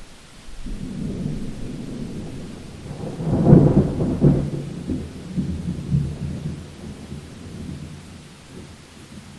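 Thunder rumbling during a rainstorm. It swells to its loudest about three and a half seconds in, then rolls away over the next few seconds, with rain falling throughout.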